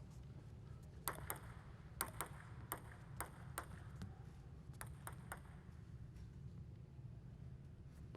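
Table tennis ball clicking: about ten light, sharp ticks of the ball on table and paddle, some in quick pairs, over the first five and a half seconds. A low steady hum runs underneath.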